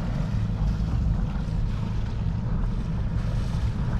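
Steady low rumble of wind buffeting the microphone aboard a sailboat under way, with a wash of water noise.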